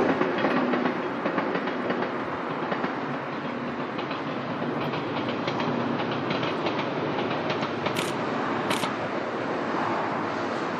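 JR 115 series electric train heard from inside the carriage while running: a steady rolling rumble of the wheels on the rails, with clickety-clack clicks from the rail joints, two sharper ones about eight seconds in.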